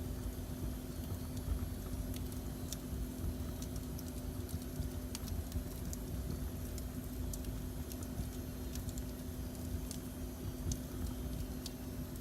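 Wood fire burning in a fireplace: a steady low rumble with scattered sharp crackles and pops at irregular intervals, over a constant low hum.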